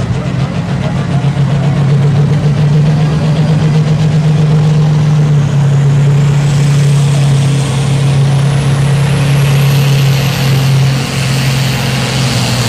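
Super Sport class pulling tractor's diesel engine running flat out under load in a steady loud drone, with a high whine climbing in pitch from about halfway through.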